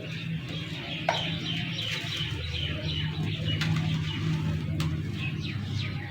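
Birds chirping throughout, over a steady low hum, with a couple of sharp snaps of dry clay crumbling, about a second in and near the end.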